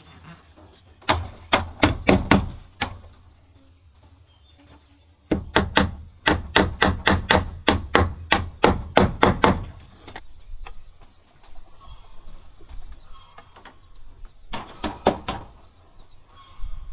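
Repeated sharp blows on wood, in three runs of strikes at about three a second, with short pauses between runs.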